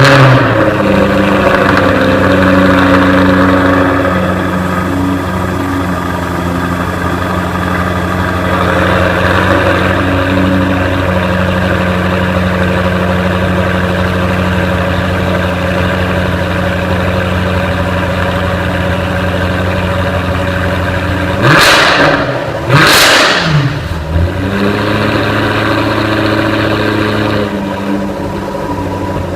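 A 2015 Jaguar F-Type R's supercharged 5.0-litre V8 fires up with a loud flare, then idles steadily through its exhaust. About twenty seconds in, it is revved twice in quick succession, the pitch rising and falling each time, before it settles back to idle.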